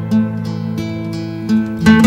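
Background music of plucked and strummed acoustic guitar, with a louder strum near the end.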